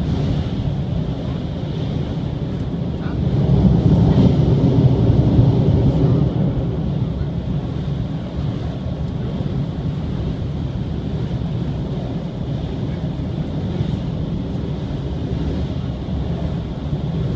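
Running noise of the Shiokaze limited express heard from inside the passenger car as it crosses a steel truss bridge: a steady low rumble that swells louder from about three and a half to six and a half seconds in, then settles back.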